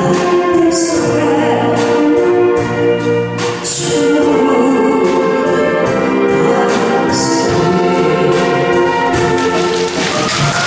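Saxophone ensemble playing a slow, sustained melody in harmony, with short percussion hits marking the beat.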